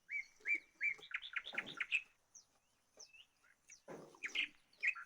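Small bird chirping repeatedly in short, quick upward chirps, with a fast run of them about a second in and more near the end. Two softer rustling sounds come in under the chirps.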